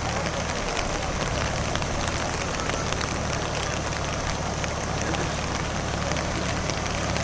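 Steady rush of fast-flowing floodwater, full of small splashes, with a tractor's engine running at a low, even hum underneath.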